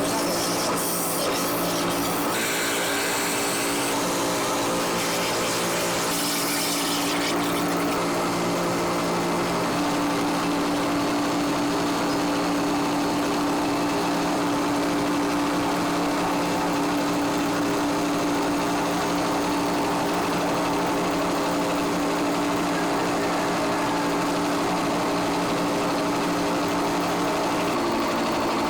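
Industrial machinery running with a steady hum, with bursts of high hiss over the first several seconds.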